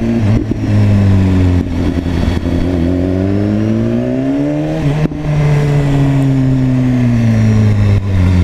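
2016 BMW S1000RR's inline-four engine pulling away, its pitch rising steadily, then an upshift about five seconds in, after which it runs on at lower revs that slowly fall away.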